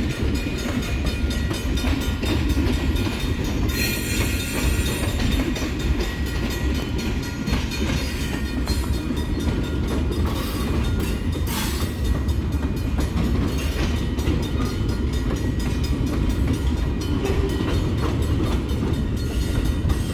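Freight train hopper and gondola cars rolling past at a grade crossing: a steady, loud rumble of steel wheels on the rails, with a couple of brief high-pitched screeches about four and eleven seconds in.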